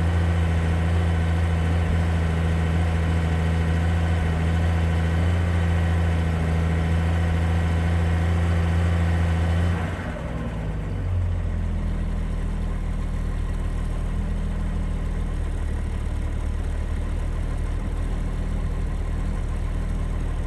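Toyota 2F inline-six engine of an FJ40 Land Cruiser at a fast cold idle on half choke. About ten seconds in, the choke is turned off: the idle dips, briefly stumbles, then settles into a lower, steady idle.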